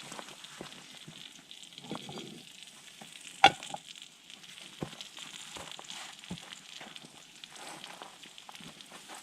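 Steady sizzling and crackling over a campfire, with scattered small pops and one sharp, loud pop about three and a half seconds in.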